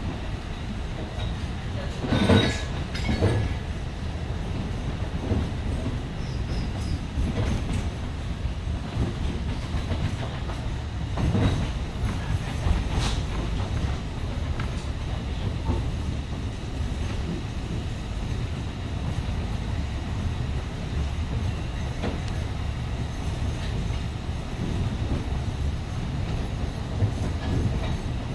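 Alishan Forest Railway narrow-gauge passenger train running along the line, heard from on board: a steady rumble of wheels on rail with scattered clacks, the loudest a pair of knocks about two seconds in and another near the middle.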